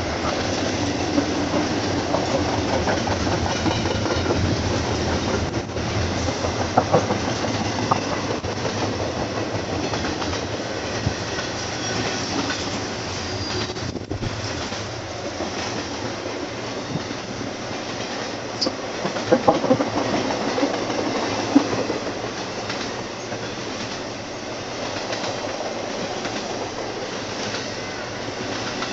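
Long freight train of intermodal cars rolling past close by, wheels clacking over the rail joints, with a few louder clanks and wheel squeals about seven seconds in and again around twenty seconds.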